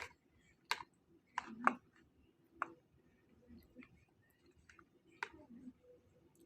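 Eating sounds: scattered sharp clicks and taps, about eight of them spread over six seconds, with soft mouth noises between.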